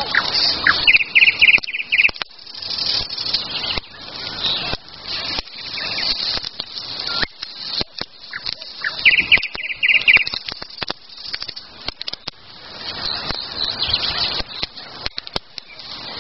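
Songbirds singing, with a quick run of bright repeated notes twice, about a second in and again just past the middle. Under them a campfire crackles and pops with frequent sharp snaps over a steady hiss.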